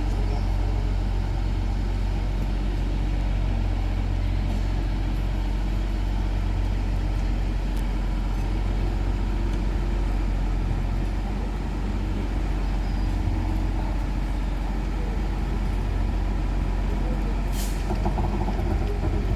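Tram running with a steady low electrical hum and rumble, with a short hiss of released air from the brakes near the end.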